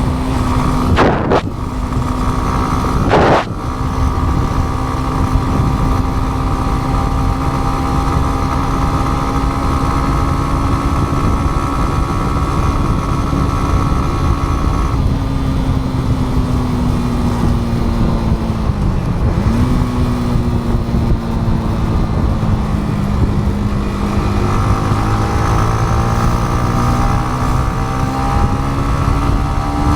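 Yamaha MT-15's single-cylinder engine running on the road, its note broken briefly twice in the first few seconds, as at gear changes. It then holds steady, falls slowly to a short break about two-thirds of the way through, and climbs steadily again as the bike accelerates.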